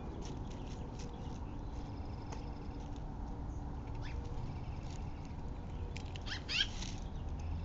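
Outdoor backyard ambience: a steady low rumble with scattered light clicks and ticks, and a quick run of high chirps about six and a half seconds in.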